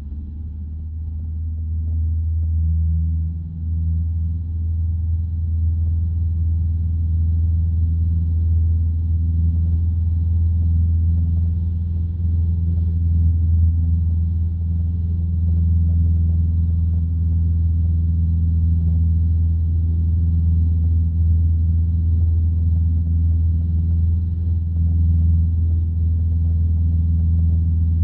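Light aircraft's piston engine and propeller droning steadily. It grows a little louder over the first couple of seconds, then holds an even level.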